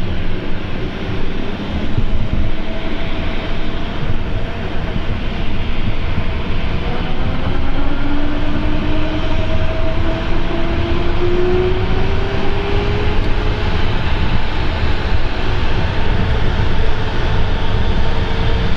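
Small aircraft tug being driven: a steady engine rumble with a whine that slowly rises in pitch over several seconds midway through.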